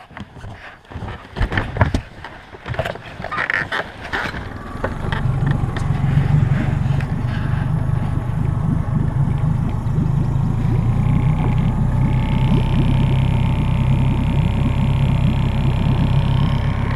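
A boat's outboard motor being started: a few knocks and clatter, then the engine catches about five seconds in and runs steadily.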